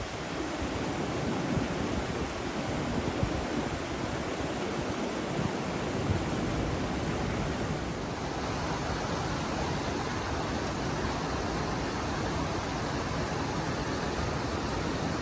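Steady rushing noise with no distinct events, of the kind made by flowing water or wind outdoors.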